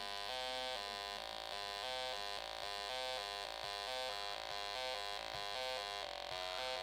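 Snap Circuits speaker driven by the color organ circuit, sounding a buzzy electronic tone whose pitch jumps up and down in short steps, several times a second. The circuit is closed through the player's hands touching the color organ's ports, so the tone shifts with each touch.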